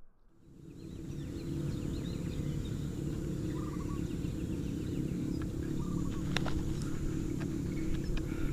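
Outdoor ambience: a steady low rumble with faint bird chirps over it, and a couple of sharp clicks about six and a half seconds in.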